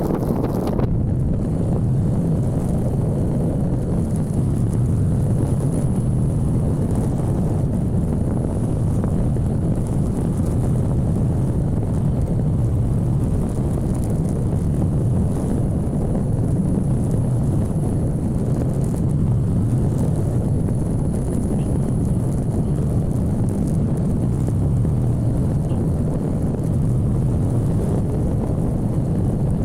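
Steady wind buffeting the microphone and road noise on a moving motorcycle. The noise is even and low, with no change throughout.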